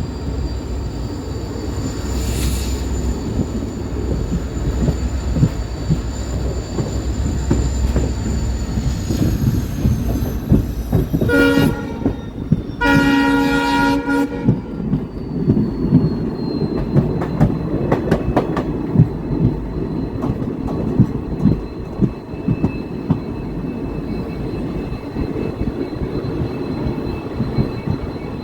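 Passenger train running on the rails with steady rumble and wheel clicks over the rail joints. About halfway through the WDP4B diesel locomotive's horn sounds twice, a short blast and then a longer one.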